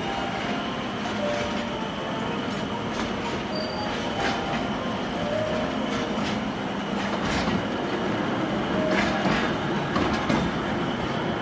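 Small narrow-gauge forest railway train running, heard from aboard the car: a steady rumble with irregular clicks of the wheels over the rail joints and a few brief wheel squeals.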